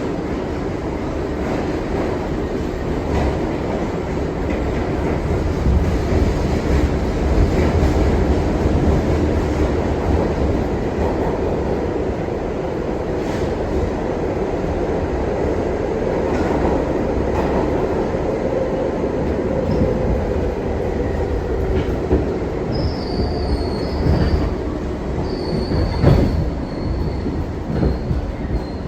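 R62 subway train running on the rails: a steady rumble with wheel clicks over the rail joints. In the last few seconds the wheels squeal with a high steady tone, and a sharp knock comes near the end.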